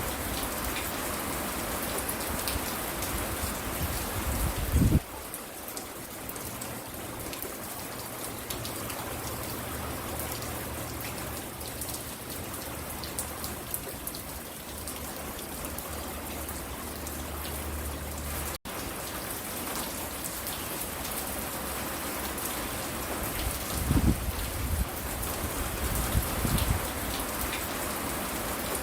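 Steady rain falling, with a loud low thump about five seconds in and a couple more low thumps near the end. A faint low drone sits under the rain through the middle, and the sound cuts out for an instant about two-thirds of the way through.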